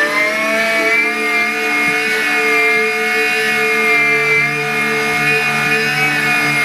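Miele Complete C3 Cat & Dog PowerLine cylinder vacuum cleaner running with its 890 W suction motor, a steady whine whose pitch rises slightly about a second in and then holds.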